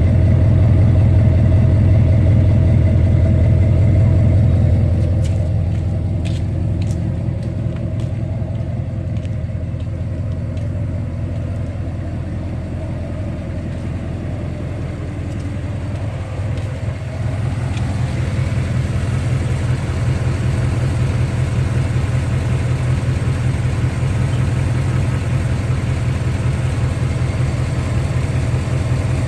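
1997 Dodge truck's Magnum V8 engine running steadily with a deep, even rumble. It eases slightly about four seconds in and picks up again past the middle, with a few faint clicks early on.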